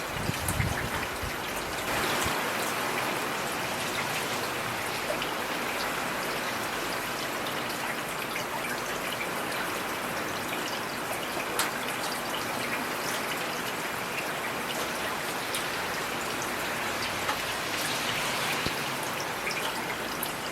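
Heavy rain falling steadily, with individual drops ticking through the hiss. There is a brief low thump at the very start and one sharper drop hit about halfway through.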